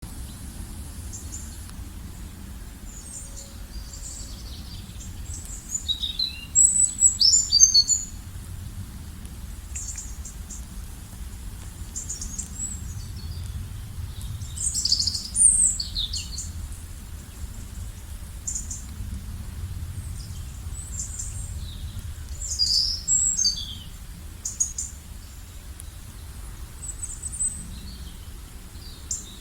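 Songbirds chirping and trilling in short, high, scattered phrases, with louder flurries a few seconds in, about halfway and again later, over a steady low background rumble.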